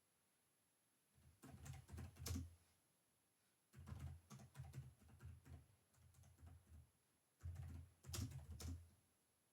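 Typing on a computer keyboard in three bursts of quick key clicks, with short pauses between them.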